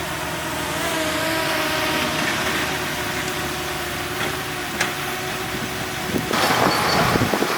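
Heavy diesel earthmoving machinery engine running steadily. About six seconds in, a louder rattling clatter starts.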